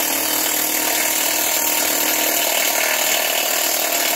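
A loud, steady hiss that starts suddenly and holds evenly.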